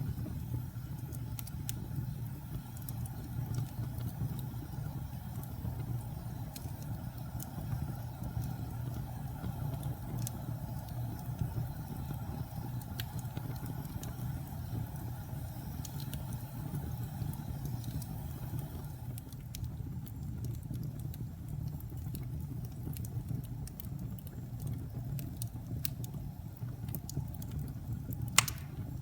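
Wood fire burning in a fireplace, with a steady low rumble and scattered small crackles, and one sharp loud pop near the end.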